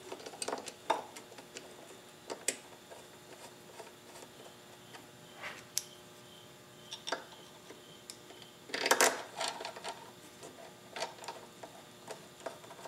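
Scattered light clicks and taps of small metal parts being handled as a carburetor and its gasket are fitted back onto a small lawn mower engine, with a louder clatter about nine seconds in.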